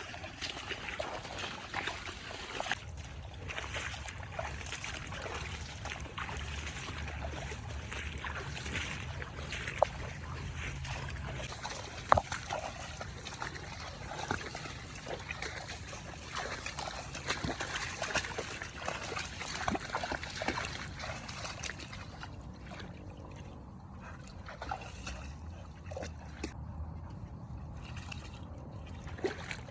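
Water sloshing and trickling, with scattered small clicks and a couple of sharper knocks about ten and twelve seconds in.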